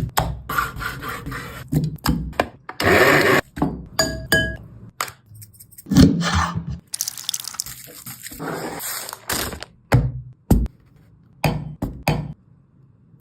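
Kitchen food-preparation noises: irregular knocks, clicks and scraping or rustling bursts, with a few short pitched blips about four seconds in.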